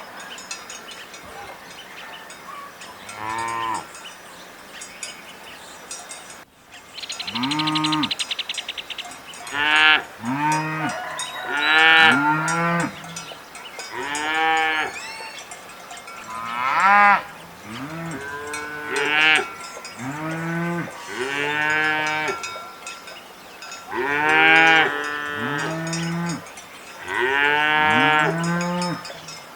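Cows mooing again and again: about a dozen calls of roughly a second each, some overlapping.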